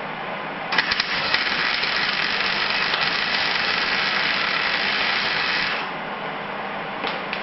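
MIG welder arc crackling steadily on thin sheet steel. It starts less than a second in with a few sharp pops as the arc strikes, runs for about five seconds, then stops.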